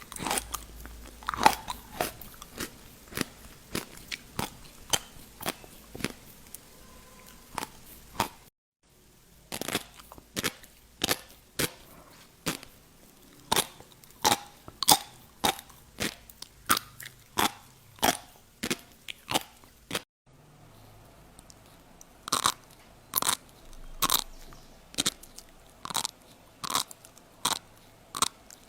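Fish-roe caviar being bitten and popped in the mouth. The crisp pops come one or two a second, with two short breaks.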